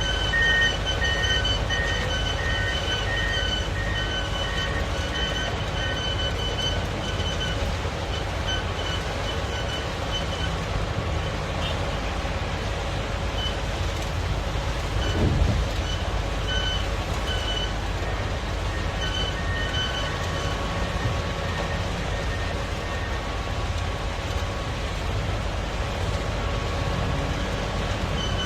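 Heavy wheel-loader diesel engine running steadily under work, with a backup alarm beeping in an even rhythm for the first several seconds and again now and then later. A short, heavier low sound comes about halfway through.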